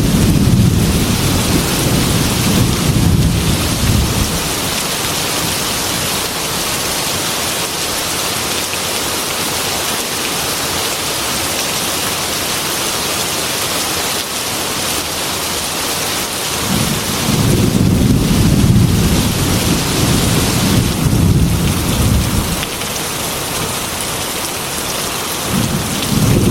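Heavy, steady rain hiss with rolling thunder rumbling low beneath it: one rumble at the start that fades after a few seconds, a longer one about two-thirds of the way in, and another building near the end.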